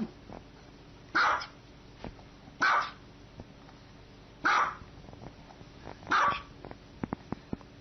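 A dog barking: single loud barks, four in all, spaced about one and a half to two seconds apart, with a few faint clicks near the end.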